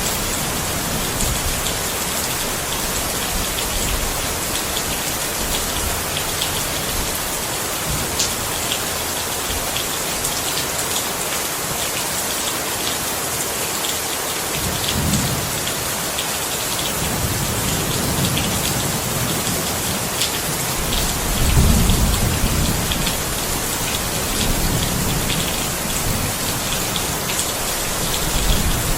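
Steady rain falling, with individual drops ticking through the hiss. Low thunder rumbles swell in several times in the second half, the loudest about two-thirds of the way through.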